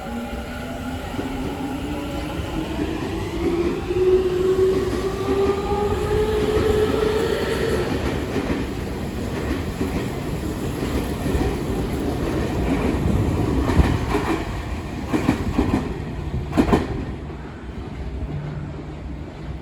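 Tokyu 5050 series electric train pulling away: its traction motors whine in several tones that rise steadily in pitch as it accelerates for the first eight seconds or so. Later the wheels clatter over rail joints, with the sharpest clacks about thirteen to seventeen seconds in as the cars pass.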